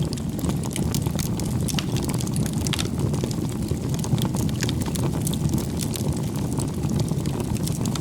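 Wood bonfire burning: a steady low roar of flames with frequent sharp crackles and pops from the firewood.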